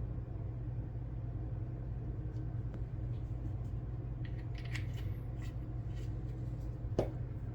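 Faint small clicks and rustles of small plastic model parts and tools being handled at a workbench, over a steady low hum, with one sharp click near the end.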